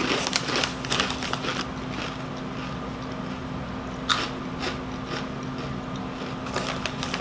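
Close-up crunching and chewing of rolled tortilla chips (Doritos Dinamita): a run of crackly crunches at the start, one sharp bite about four seconds in, and more crunching near the end, over a faint steady low hum.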